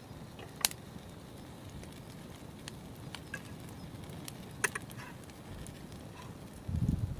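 Wood fire burning with a few scattered sharp crackles and pops over a low steady rumble; a louder low rumble comes in near the end.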